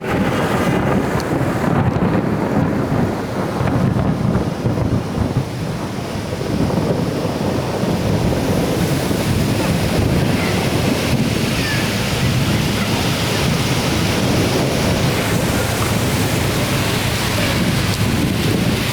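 Heavy thunderstorm downpour: a steady loud rush of rain and running floodwater, with wind buffeting the microphone. The hiss grows brighter about halfway through.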